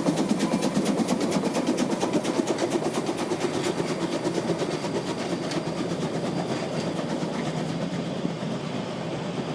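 Narrow-gauge steam train running, with a fast, even rhythm of about four beats a second that grows fainter over the last few seconds.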